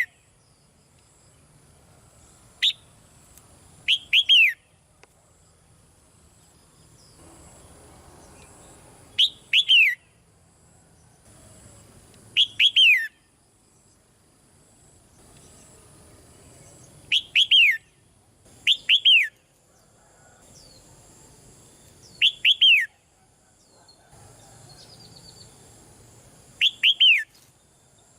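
Red-whiskered bulbul calling: short groups of two or three quick chirps falling in pitch, repeated every few seconds.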